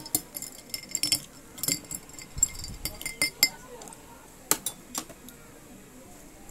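Light clinks and knocks of glass and tableware, a dozen or so short strikes over about five seconds, some with a brief high ring.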